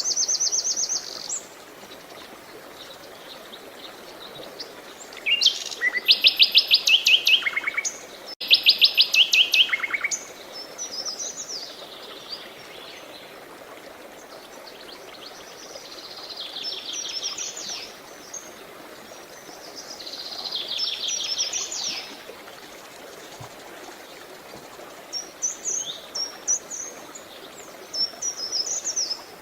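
Songbirds singing over a steady background rush of water: phrases of fast trilled notes come every few seconds, the loudest two close together about a third of the way in, with quicker twittering near the end.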